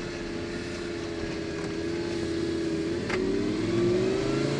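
Lamborghini Gallardo's 5.0-litre V10 pulling under acceleration, heard from inside the car, its note climbing steadily. About three seconds in there is a short click and the pitch dips, then climbs again: an upshift.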